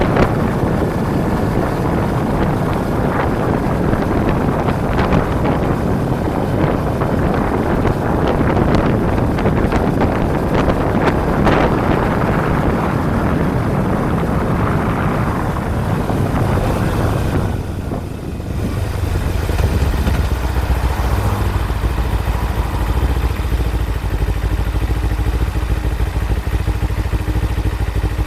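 Kawasaki Ninja 250 motorcycle riding along, wind rushing over the microphone with its parallel-twin engine running underneath. A little past halfway the wind noise drops away and the engine's steady low note comes to the fore.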